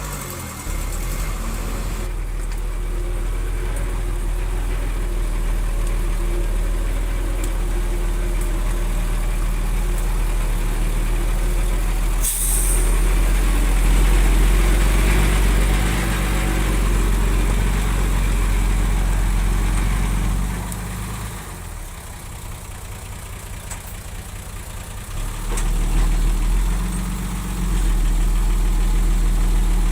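Heavy diesel engine of construction machinery running steadily. Its level drops for a few seconds about two-thirds of the way through, then comes back up. A short sharp hiss sounds about twelve seconds in.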